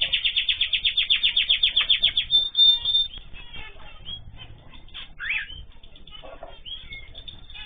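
Small cage birds, with a fast, even pulsing of about ten strokes a second for the first two and a half seconds, then scattered short chirps.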